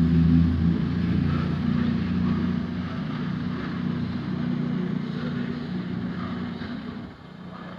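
A large vehicle's engine running with a steady low drone, fading away over several seconds as it moves off.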